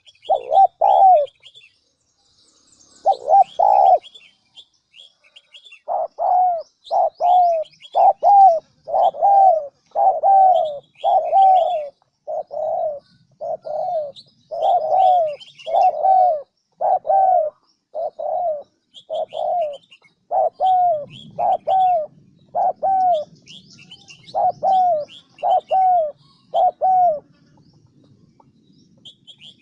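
Spotted dove decoy bird cooing in a quick series of short, evenly spaced notes, about one and a third a second, the decoy call used to lure wild doves into a trap. After a few notes and a pause, the series runs on and stops about three seconds before the end. Small birds chirp higher up in the background.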